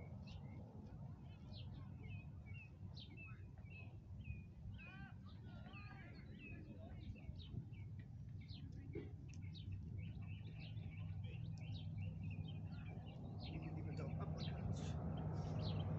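Small birds chirping and twittering: many short calls with a few warbling phrases, over a low steady rumble of outdoor background noise that grows louder toward the end.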